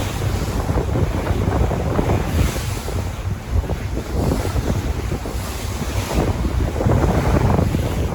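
Sea waves washing in and surging every second or two, with wind buffeting the microphone and adding a deep rumble.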